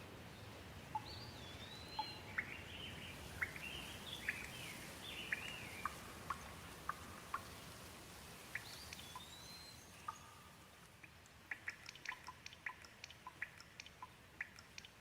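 Gentle rain falling as a soft, faint, steady hiss, with a bird's short sliding chirps through the first half and a quick run of sharp ticks in the last few seconds.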